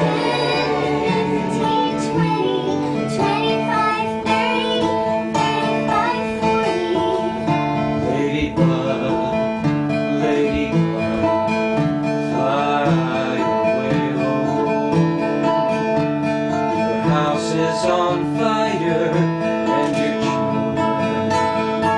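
Acoustic guitar strumming a folk song in a steady rhythm, with voices singing along.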